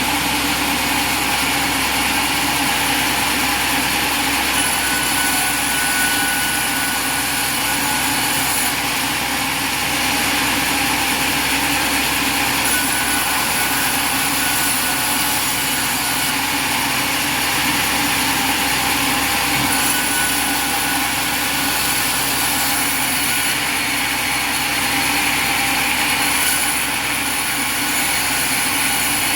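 Portable sawmill's engine running steadily, with no pause or change in speed.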